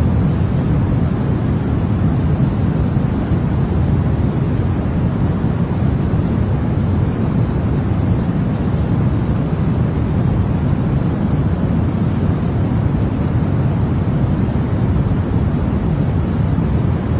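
Continuous white noise for baby sleep: a steady, unbroken rushing hiss that sits mostly low and deep, with no changes.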